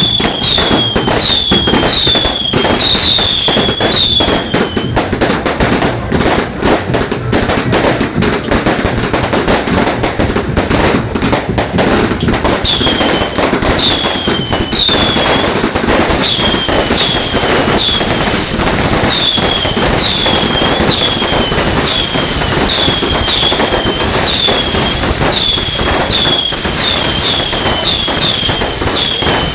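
Fireworks, a Roman candle type, going off continuously with dense rapid crackling. Over it runs a string of short whistles that drop in pitch, about two a second. The whistles break off about five seconds in, leaving heavy crackling, and resume from about thirteen seconds on.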